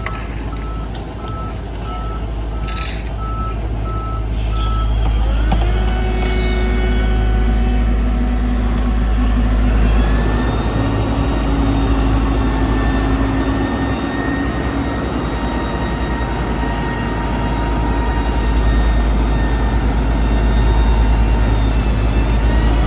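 Heavy diesel construction equipment running with a deep, steady rumble, a backup alarm beeping at an even pace for the first five seconds or so. About five seconds in, an engine revs up and rises in pitch, and it climbs again around ten seconds in before holding at a higher, steady speed.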